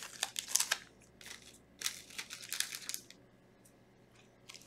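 Foil trading-card booster pack crinkling and being torn open, in several short bursts over the first three seconds.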